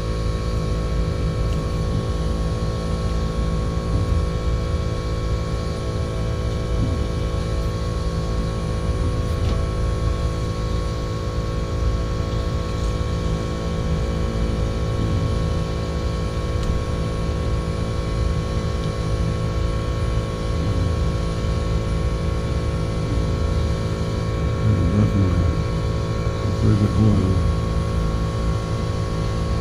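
Machinery running steadily: a constant low rumble with a fixed multi-tone hum and a thin steady whine, unchanging throughout.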